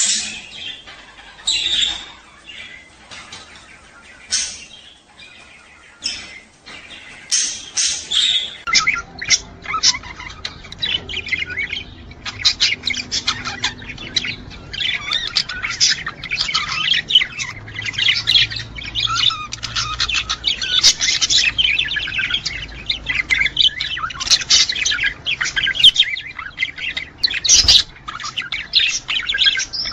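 Budgerigars chirping and warbling. There are scattered single calls at first, then a dense, continuous chatter of many fast chirps from about nine seconds in.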